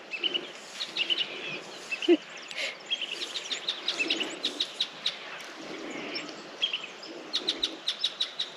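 Several wild birds calling and chirping over a steady hiss, with a quick run of sharp chirps near the end.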